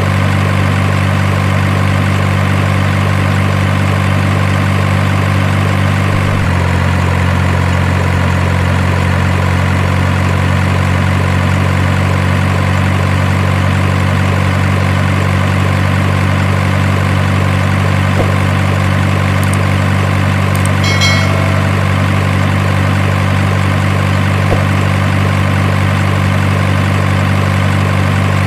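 Steady truck engine idling, a constant low drone whose pitch shifts slightly about six seconds in. A brief high-pitched chirp comes about two-thirds of the way through.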